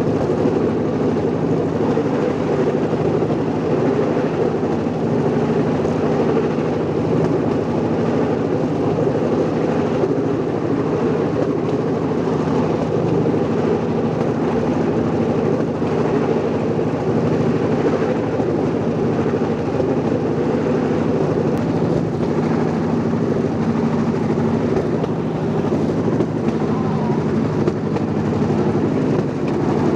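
Small engine of a moving vehicle running steadily, an unbroken drone with a constant low hum.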